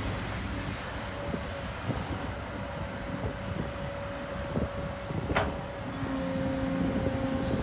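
Heavy diesel earthmoving machinery running steadily, with a steady whine and scattered metallic clanks and knocks, and one sharp clank about five seconds in.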